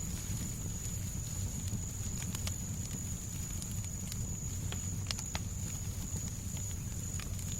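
Fireplace crackling, with irregular sharp pops and snaps over a steady low rumble of white noise. A thin, high, steady tone sits above it all.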